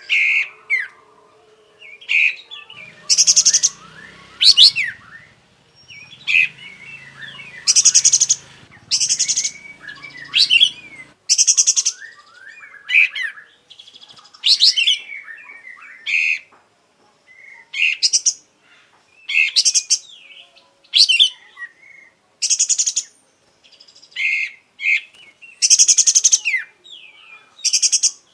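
Olive-winged bulbul (kapas tembak) singing in a quick run of short, loud phrases, about one every second or so: buzzy high trills mixed with quick sweeping whistled notes. It is in full song, pouring out its varied repertoire.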